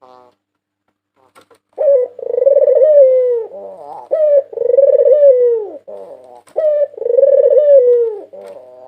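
White Barbary dove (puter putih) cooing: three loud phrases, each a short note followed by a long rolling coo that falls in pitch at its end, repeating about every two and a half seconds.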